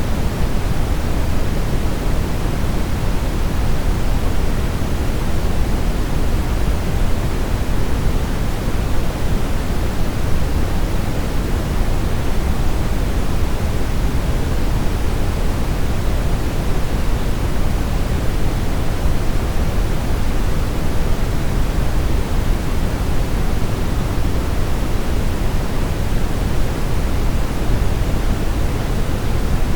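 Brown noise: a steady, unchanging deep hiss, strongest in the low rumble and fading off toward the highs.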